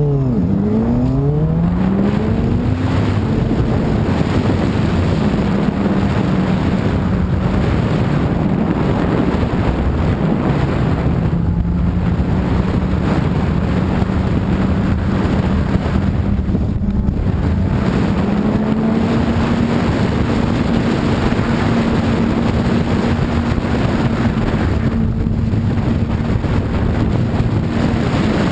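Sportbike engine pulling hard, its pitch climbing over the first few seconds, then holding a steady high-revving note at freeway speed. Wind rushes over the microphone throughout.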